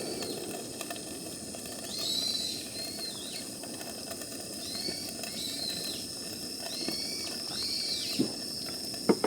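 Birds calling: a series of short arched chirps, roughly one a second, over a steady low hiss, with two sharp clicks near the end.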